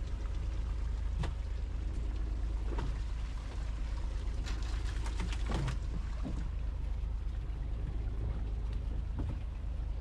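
A fishing boat's engine running with a steady low rumble, with a few short clicks and knocks about four to six seconds in.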